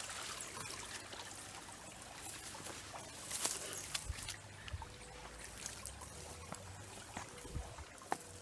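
A small stream trickling steadily, with faint scattered clicks and rustles over it.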